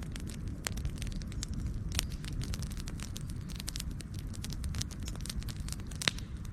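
Wood campfire burning with a steady low rumble and irregular sharp crackles and pops, the loudest pop a little before the end.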